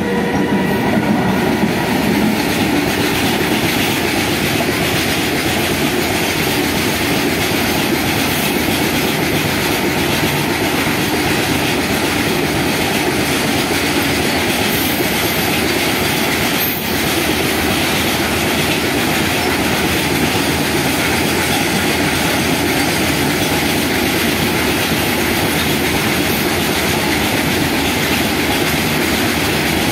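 Indian Railways WAG-12 electric freight locomotive passing close by, followed by a long rake of open steel freight wagons. The wagon wheels roll over the rails in a steady noise that does not let up.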